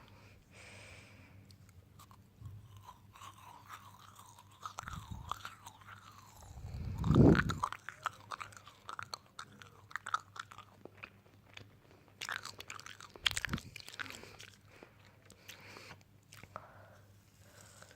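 Close-miked ASMR eating sounds: crunchy chewing and biting with wet clicks and crackles. A louder low thump about seven seconds in.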